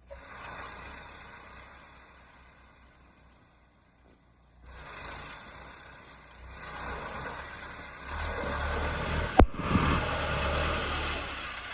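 Heavy tractor engines running, getting louder about eight seconds in, with a single sharp knock about nine and a half seconds in.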